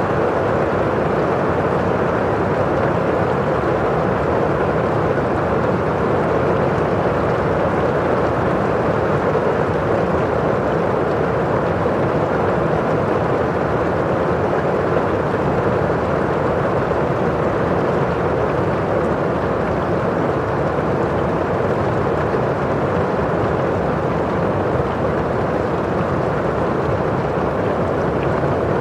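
Steady rain falling on a window pane: a constant, dull hiss with no single drops standing out.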